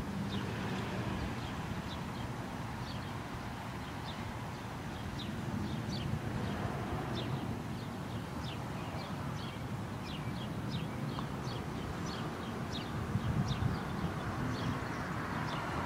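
Birds chirping over and over in short, high, falling notes, over a steady low rumble.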